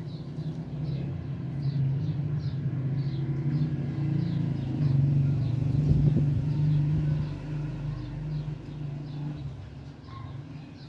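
A motor vehicle's engine running, growing louder to a peak about halfway through and then fading away, as it passes. Birds chirp faintly throughout.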